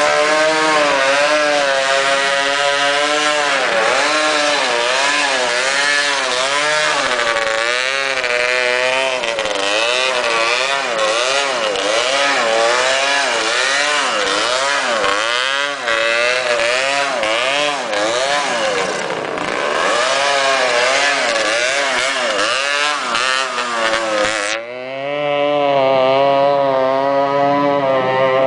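Motorcycle engine being ridden hard, its pitch rising and falling over and over, about once a second, as the throttle is opened and closed. About 24 seconds in the sound changes abruptly to a steadier engine note.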